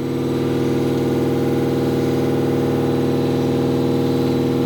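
A steady motor or engine hum, holding one even pitch.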